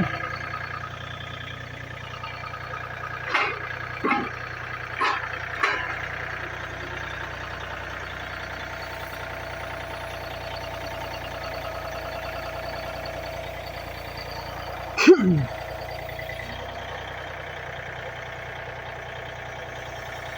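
A machine's engine running steadily, with four short knocks about three to six seconds in and one loud, brief sound that drops in pitch about fifteen seconds in.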